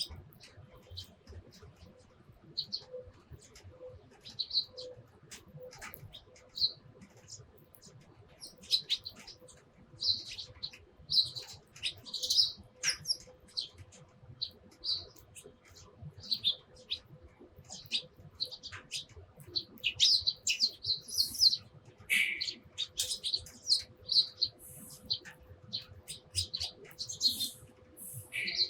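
Eurasian tree sparrows chirping: short, high chirps, scattered at first, then coming thick and fast from about a third of the way in. A faint steady hum lies underneath.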